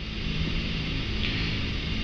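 Steady flight-deck noise of a Boeing 747-400 climbing: rushing air with a low hum underneath.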